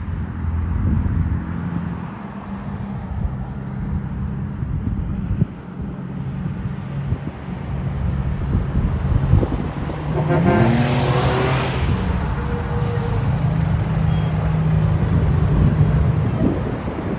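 Diesel truck engines running on a road, with a vehicle passing close about ten seconds in as a louder rush of tyre and wind noise.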